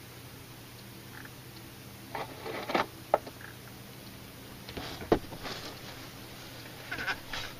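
A steady low drone with several pitched layers, the unexplained droning noise heard in the sky. Short rustles and sharp clicks come over it about two to three seconds in, again near five seconds and near seven seconds.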